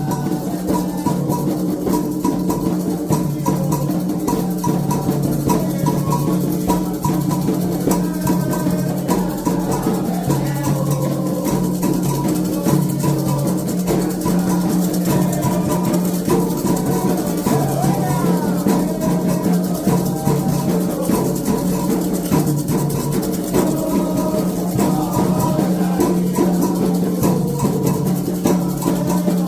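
Candomblé toque: atabaque hand drums and shaken and struck percussion playing a continuous rhythm, with chanted singing over it.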